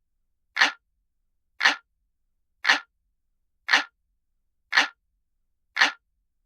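Looped clock-ticking sound effect imitating an analog clock: one sharp, identical tick about every second, six in all.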